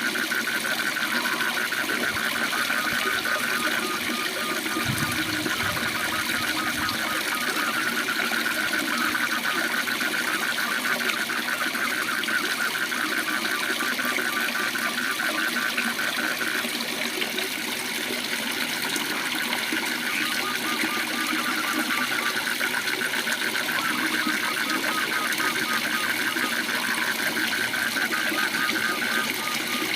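Steady rush of a waterfall under a chorus of frogs calling in fast, pulsing trills that run on almost without a break.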